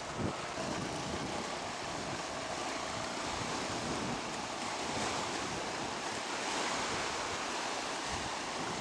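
Gusty wind rushing over the microphone, with choppy water lapping, a steady rushing noise.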